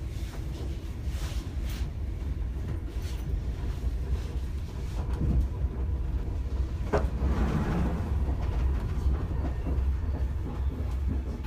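Passenger train running, heard from inside the carriage: a steady low rumble with a few faint clicks, and a sharp knock about seven seconds in followed by a brief rougher stretch.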